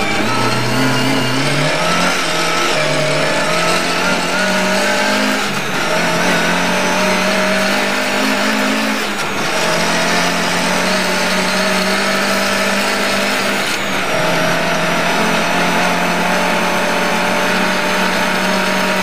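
Lada 1200 rally car's four-cylinder engine under hard throttle, heard inside the cabin. Its pitch climbs through several gear changes in the first half, drops at a shift about two-thirds of the way in and then holds fairly steady, over a haze of tyre and wind noise.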